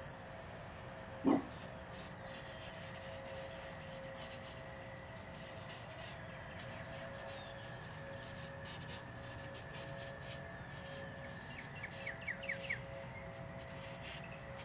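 Wild birds calling: short high chirps that swoop down and level off, repeated every few seconds, with a quick trill of rising notes about twelve seconds in and a single lower call about a second in. Under them, charcoal scratches and rubs on drawing paper.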